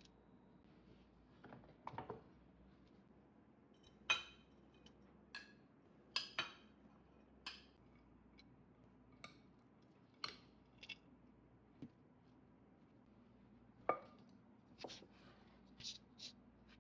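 Light kitchen clinks and taps of utensils and dishes being handled, about a dozen short, irregular knocks over a quiet background, the loudest about four, six and fourteen seconds in.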